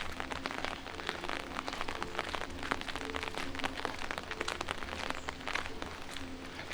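Light rain falling: a dense, irregular patter of drops ticking on hard surfaces over a steady hiss.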